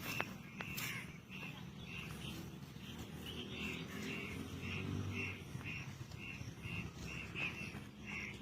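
A bird calling in a steady series of short, evenly repeated notes, about two a second.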